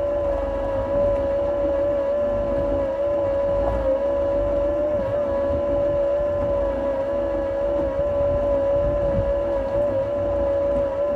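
An engine running steadily at constant speed: a steady high whine over a low rumble.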